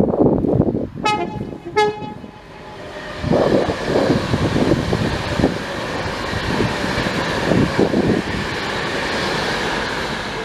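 Train horn giving two short toots, the second lower than the first, then a passing train's steady rushing rumble from about three seconds in. Wind buffets the microphone.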